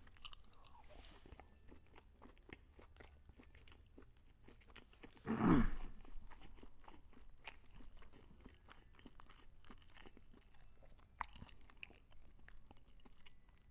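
Close-miked chewing of crispy fried chicken: soft crunches, wet mouth clicks and smacks. About five seconds in comes a short hum that falls in pitch.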